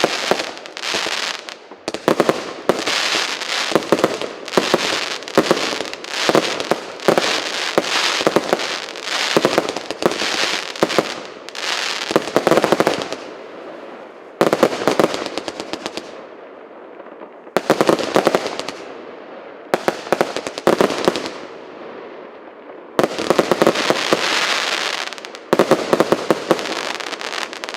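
A 150-shot fireworks cake firing rapid volleys of shots. For the first half they come in dense clusters about a second long. After that, single bursts come every two to three seconds, each fading out in a crackle.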